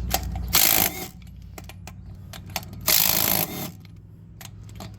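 Impact wrench hammering on a truck's lug nuts to break them loose, in two short trigger bursts about two seconds apart, with small clicks and clatter between.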